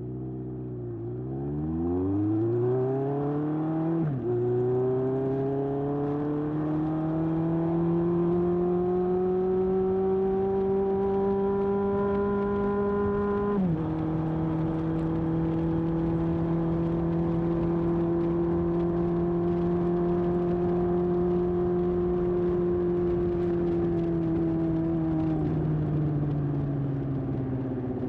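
1981 Honda CB750F's air-cooled inline-four through a Yoshimura muffler, pulling away and climbing in revs, dropping sharply with an upshift about four seconds in, pulling up again, then shifting up once more about halfway through. It holds steady revs at cruise, then the engine note falls near the end as it eases off.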